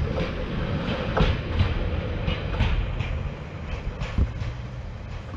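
Class 143 Pacer diesel multiple unit running away after passing, its rumble fading, with scattered clicks from the wheels over the rail joints.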